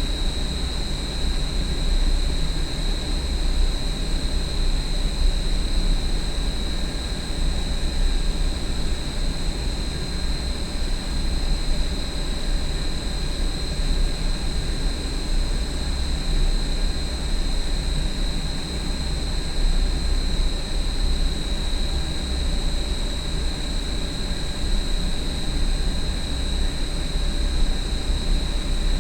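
Large industrial exhaust fan running steadily: a deep rumble with a constant high-pitched whine over it.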